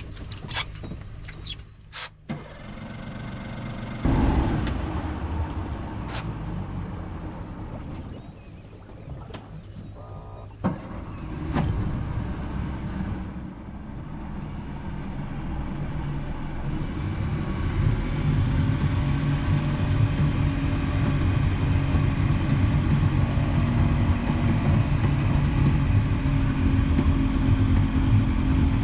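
A vehicle engine running, with a steady low hum that grows louder through the second half, after a few clicks and knocks near the start.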